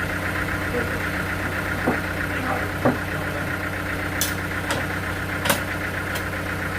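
An engine running steadily, with a few sharp clicks or knocks over it, the loudest about three seconds and five and a half seconds in.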